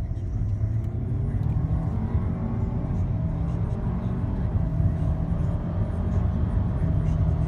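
Audi A4 B8's tuned turbocharged four-cylinder engine accelerating in a hard pull, its note rising in pitch, rising again in the middle and then levelling out.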